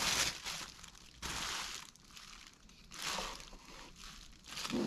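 Packaging crinkling and rustling in a few short bursts as parts are handled.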